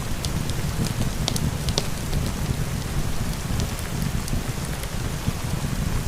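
Steady rain with a low rumble, mixed with scattered sharp crackles and pops of a wood fire burning in a fireplace.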